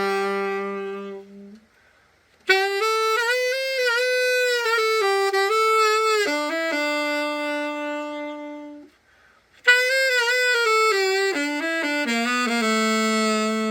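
Selmer Super Balanced Action tenor saxophone played solo after a full overhaul: three melodic phrases, each ending on a long held note, with short breaths about two seconds and nine seconds in.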